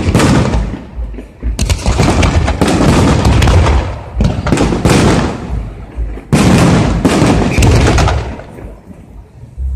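Aerial firework shells bursting overhead in a rapid series of loud booms, one after another, with a deep rumbling echo after each. There are short lulls about a second in and near the end.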